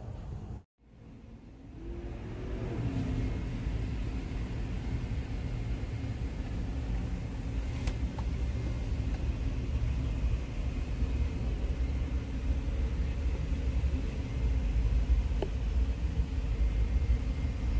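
Jeep Cherokee XJ's 4.0-litre inline-six engine idling with a steady low rumble, heard from inside the cab.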